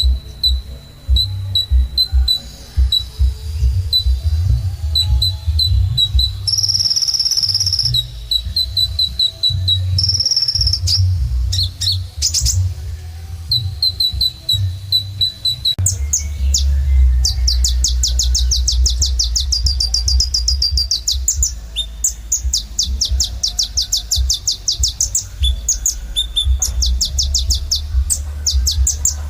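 Kolibri ninja sunbird singing energetically: high, thin chirps repeated in quick runs, giving way about halfway to long, rapid buzzing trills. A steady low rumble runs underneath.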